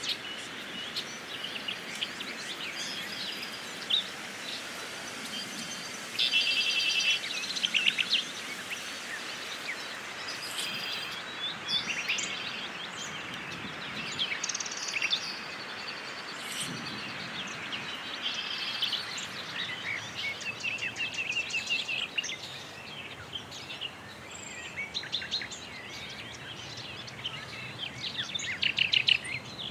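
Small birds chirping and trilling on and off throughout, several short calls at a time, over a steady outdoor background hiss.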